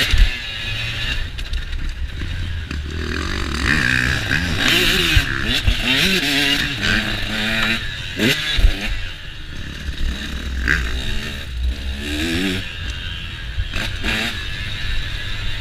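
KTM motocross dirt bike engine revving hard and falling back again and again while being ridden, its pitch sweeping up and down every second or two, with a few sharp knocks along the way.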